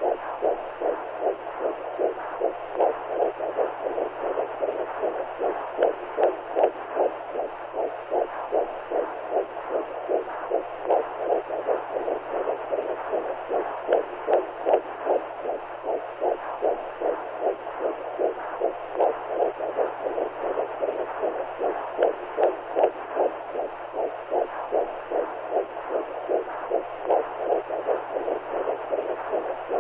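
Womb sound for newborns: a steady whooshing noise that pulses at an even rhythm like a heartbeat heard from inside the mother's belly, over a faint low hum.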